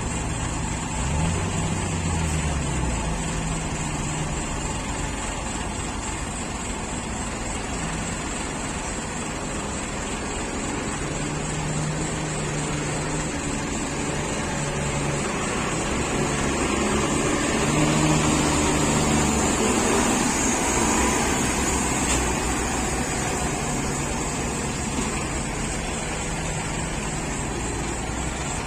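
Tata truck's diesel engine running under way, its pitch rising and falling in the first few seconds as the revs change, then holding a steady note with road noise, a little louder about two-thirds of the way through.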